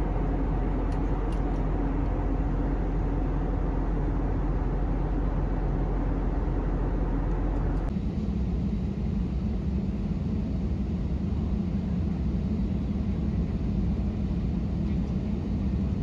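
Steady low rumble of a moving vehicle, whose pitch and character change abruptly about halfway through.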